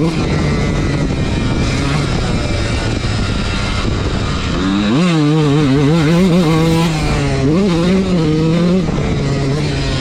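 Dirt bike engine running hard on a motocross track; about halfway through its pitch climbs sharply and then rises and falls repeatedly with the throttle before settling near the end.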